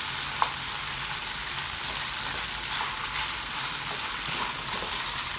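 Marinated chicken pieces sizzling and crackling in hot oil in a frying pan while a wooden spatula turns them, with one sharp tick about half a second in.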